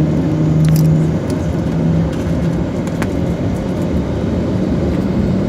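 Airliner engines running, heard inside the passenger cabin before takeoff: a steady rumbling drone, with a low hum that fades about a second in.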